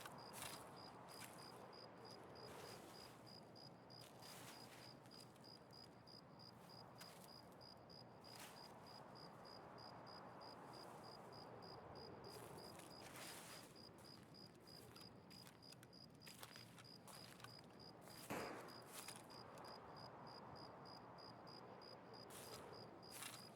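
Near silence with a faint, evenly repeating high chirp and a few soft clicks, and one louder knock about eighteen seconds in.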